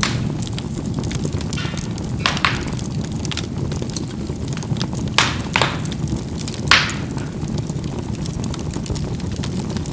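Charcoal burning in a fireplace: a steady low rush of flame under fine crackling, with a few louder pops and snaps of the burning charcoal spread through the middle of the stretch.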